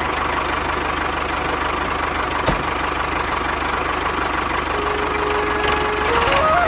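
Small motor running steadily with a fast, even chatter and hum, as of a miniature DIY model tractor. About five seconds in, a melody of stepping tones begins over it.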